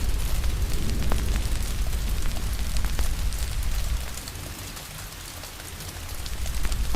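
Steady rain hiss mixed with the small pops and crackles of a wood fire. A deep rumble underneath fades out for a couple of seconds past the middle and then comes back.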